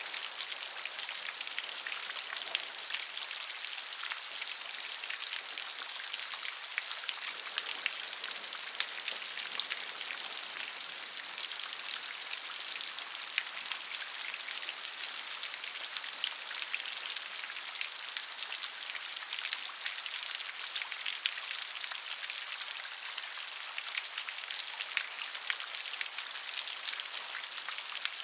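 Steady rain falling, a constant hiss with many fine, crisp drop ticks throughout and almost no low rumble.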